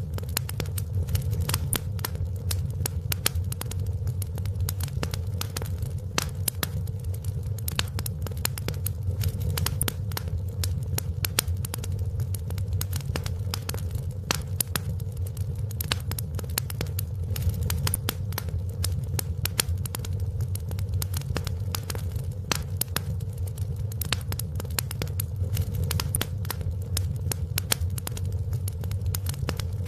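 Wood fire in a fireplace crackling steadily: many small sharp pops and snaps over a constant low rumble of the flames.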